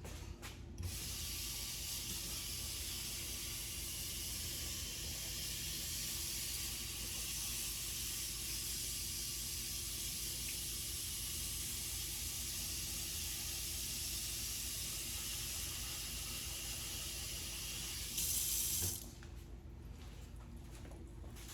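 Kitchen tap running into a pot of cut potatoes, filling it with water. The flow is steady, gets louder briefly near the end, then is shut off.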